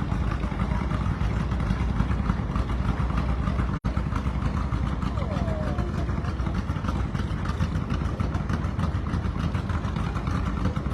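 Antique farm tractor engine running steadily as the tractor moves in a parade; the sound cuts out for an instant about a third of the way in.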